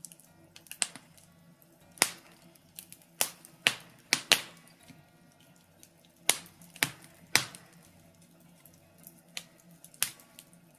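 Birch logs crackling in a fireplace: irregular sharp pops and snaps, a few loud ones among many small ticks.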